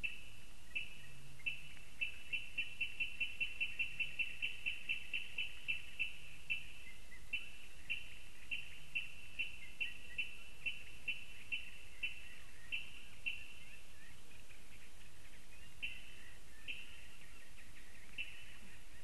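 A reedbed bird calling a long series of short, sharp, high notes: they speed up to about five a second, then slow and come in spaced groups with pauses.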